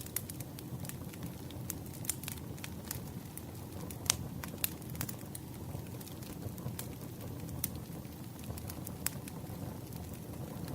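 Campfire crackling: a steady low rush of burning wood under frequent, irregular sharp pops, the loudest a little after four seconds in.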